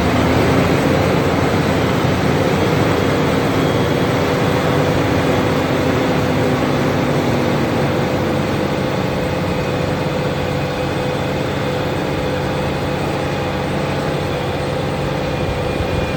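Fendt tractor engine running steadily under load while pulling a plough, with a steady whine over a dense rumble.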